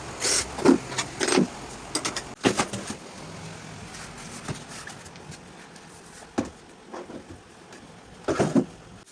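Irregular knocks and clatters: several sharp ones in the first three seconds, a couple of single ones in the middle, and another cluster near the end.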